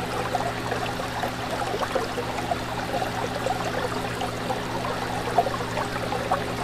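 Aquarium water bubbling and trickling continuously, lots of small bubbles popping, over a steady low hum.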